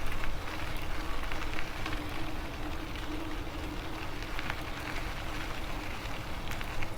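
Rolling noise of an e-bike riding along a trail: steady tyre rumble and wind on the microphone, with scattered small clicks and a faint steady hum.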